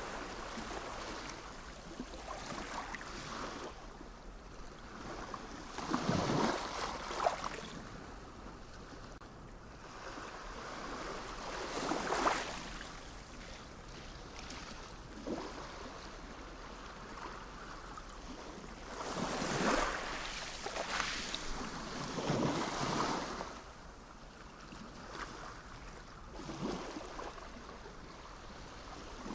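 Sea waves breaking and washing in over a steady rush of surf. About five waves swell up and fall away in turn.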